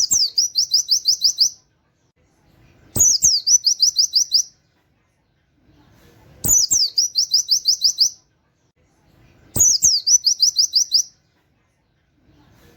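White-eye (pleci) singing a canary-like 'wit wit' phrase four times, about every three seconds: each phrase opens with a high downward sweep and runs into a quick string of about eight repeated notes, with silent gaps between.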